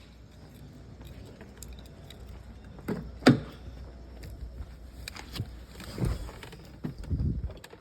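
Scattered clicks and rustling with keys jangling, and several dull thumps, the loudest about three seconds in and two more near the end: handling sounds around a car just before a cold start.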